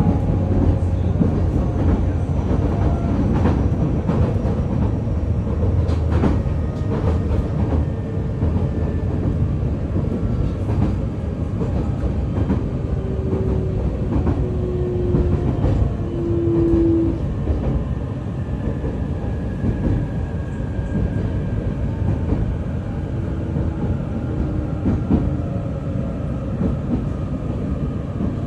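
Running sound inside a JR East E531 series electric train: a steady rumble of wheels on rail with occasional rail-joint clicks. A faint whine slowly falls in pitch as the rumble eases a little.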